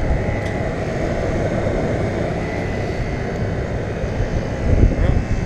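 2011 Goodman 5-ton central air conditioner condensing unit with a Copeland scroll compressor, running steadily: a low rushing noise from the fan with a faint steady high tone over it. There is a brief louder low bump near the end.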